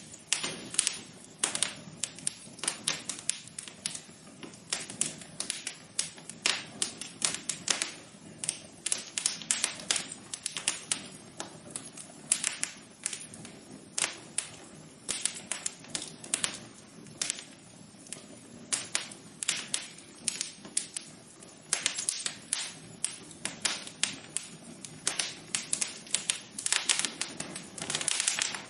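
Wood fire crackling in a fireplace: irregular sharp pops and snaps, several a second, over a soft steady low hiss.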